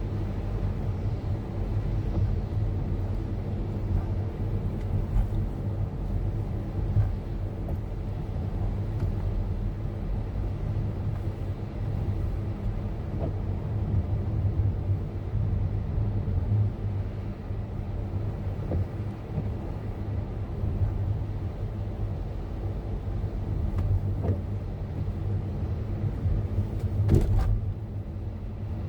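Car engine and road noise heard from inside the cabin: a steady low rumble, with a short knock near the end.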